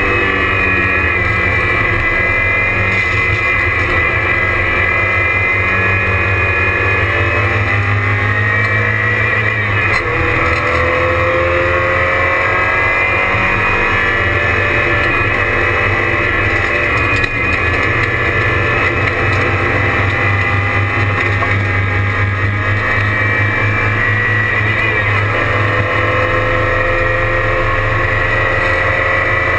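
A Porsche 944 race car's four-cylinder engine running hard on track, heard from inside the cabin. Its revs rise and fall as the car accelerates and slows through the corners.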